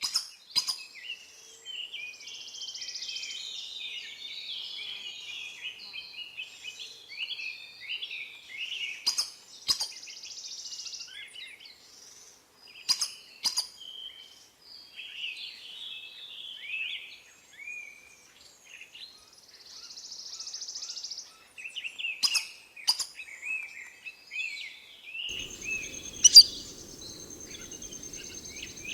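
Several birds calling and chirping in a forest, with short high phrases overlapping. Several sharp clicks are scattered through it, and near the end a steady high-pitched tone and a low hum join in.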